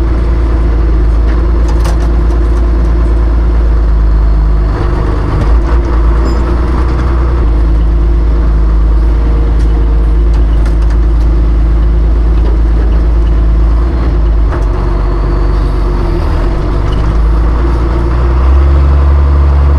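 A classic John Deere tractor's engine running steadily, with its note shifting about five seconds in and getting louder near the end.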